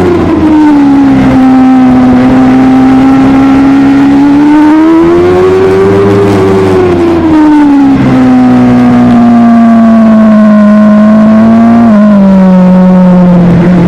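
Superbike engine running hard at high revs, loud and steady: its pitch holds, swells up and falls back about midway, and drops suddenly near the end at a gear change.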